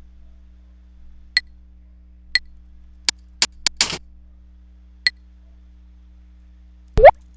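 Short computer sound effects played one at a time from a soundboard. There are single short pings about a second in, at two seconds and at five seconds, and a quick run of sharp clicks with a short hiss around three and a half seconds. Near the end come two rising bloop sweeps.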